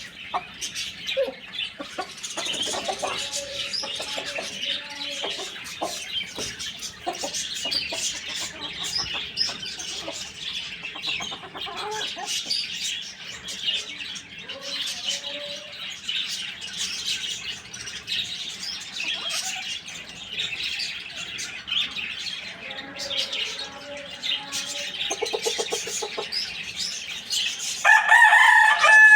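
Chickens clucking under a constant chorus of small birds chirping. Near the end comes one loud rooster crow, about a second long.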